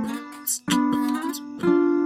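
Instrumental music: a plucked-string instrument strumming chords, struck three times with each chord ringing on, with light high percussive ticks over it.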